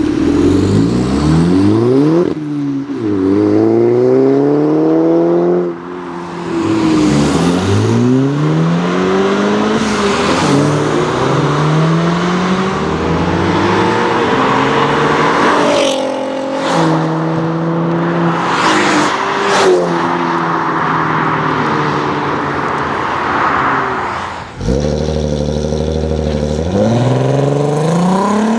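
Volkswagen performance car engines accelerating hard, one pull after another, the pitch climbing through each gear and dropping at each upshift. There are a few sharp cracks around the middle, and near the end the sound drops away briefly before another engine starts climbing.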